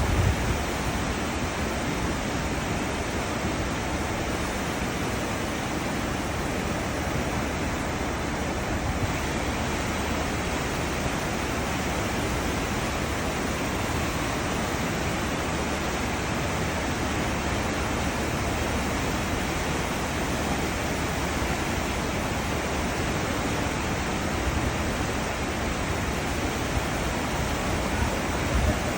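Churning white water of a cruise ship's wake: a steady, even rush, with brief low thumps near the start and the end.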